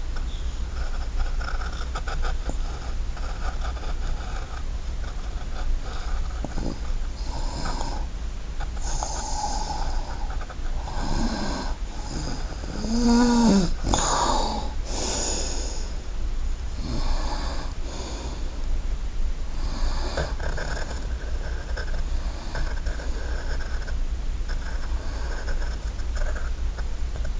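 Drawing strokes on paper: irregular scratchy rubbing that comes and goes over a steady low hum, with one brief rising-and-falling tone about 13 seconds in.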